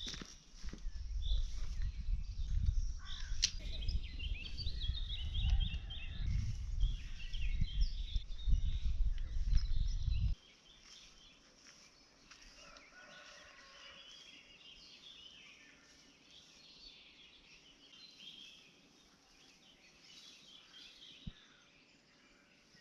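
Wild birds singing and chirping, with gusts of wind buffeting the microphone for about the first ten seconds; the wind noise cuts off abruptly, leaving only faint birdsong.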